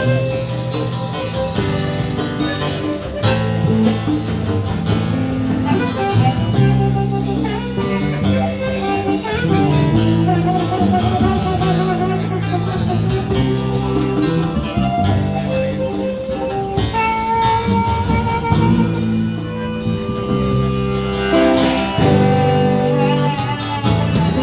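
Live blues band playing an instrumental passage: guitar over bass and drums.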